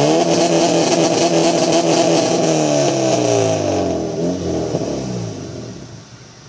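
2001 Integra GS-R's 1.8-litre VTEC four-cylinder through a straight-piped 2.5-inch exhaust with a Mugen twin-loop muffler, revved hard. The revs shoot up right at the start, hold high for about three and a half seconds, then drop back and the sound fades.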